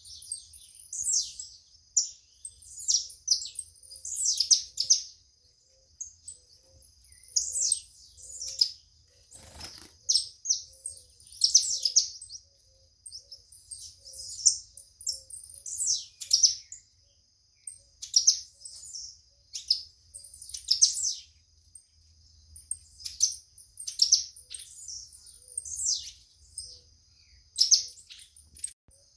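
Songbirds chirping in short high phrases that repeat every second or two, over a steady high-pitched tone.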